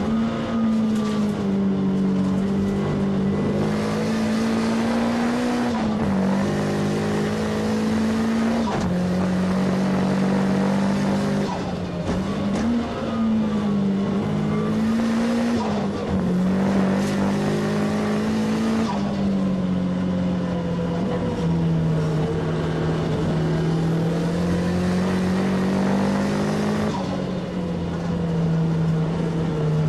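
Nissan S15 Silvia race car's engine heard from inside the stripped cabin, driven hard. Its pitch climbs and falls with the throttle, with several sharp drops in pitch through the run.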